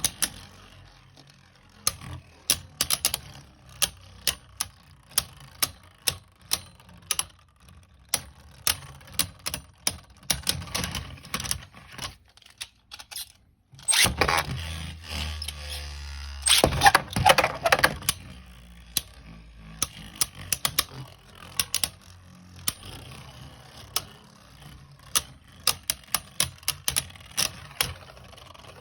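Hard plastic Beyblade Burst tops and launchers clicking and rattling, with many sharp clicks throughout. After a short pause about halfway through, there are a few seconds of louder whirring and clattering, typical of tops being launched and clashing in a plastic stadium.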